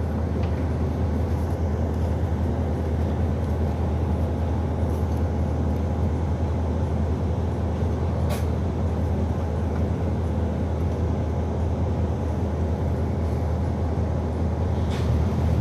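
City bus's engine and running noise heard from inside the passenger cabin: a steady low drone. A single sharp click comes about eight seconds in.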